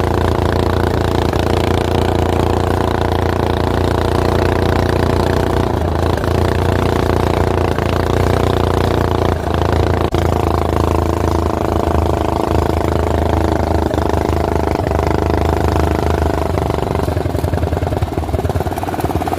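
Go-kart's Predator small gasoline engine running steadily at an even speed, with a chugging, rattly note.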